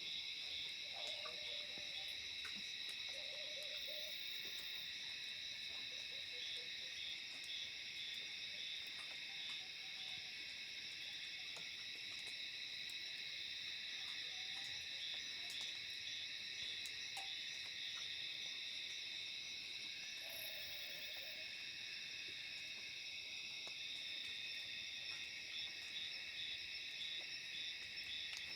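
Steady, high, unbroken chorus of night insects, with a few faint short calls from another animal lower down about a second in, a few seconds in and around twenty seconds in.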